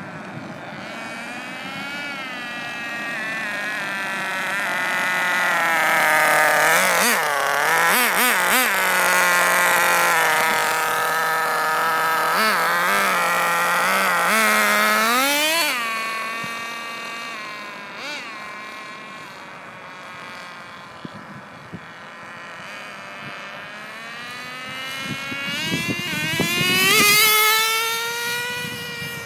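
O.S. .18 two-stroke nitro glow engine with a THS exhaust, in an HPI RS4 3 Evo RC car, running at high revs. Its pitch climbs and falls as the car speeds up and slows, loud through the middle stretch. Near the end it swells again on a close pass, the pitch rising and then dropping.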